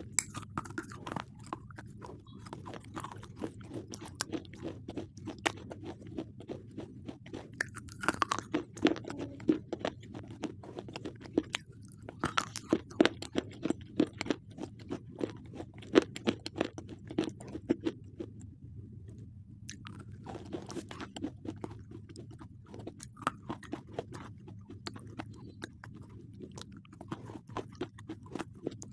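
Slate pencils being bitten and chewed close to the microphone: a continuous run of dry crunching and crackling, with louder bursts of crunches partway through.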